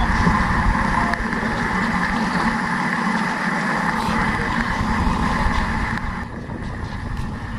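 Steady engine and road noise of a moving vehicle, easing off a little about six seconds in.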